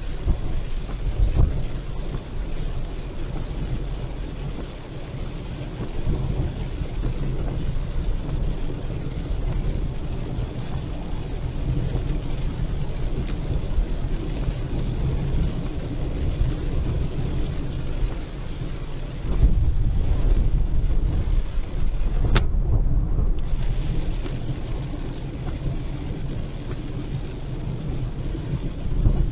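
Car driving on a wet highway in the rain: a steady low rumble of road and engine noise under a hiss of rain and spray, growing louder for a few seconds about twenty seconds in, with a single sharp click just after.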